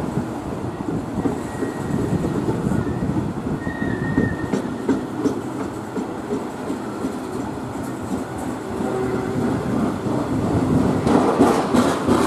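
Freight train of steel open box wagons rolling past on the rails, wheels clattering steadily over the track, with a faint high wheel squeal during the first few seconds.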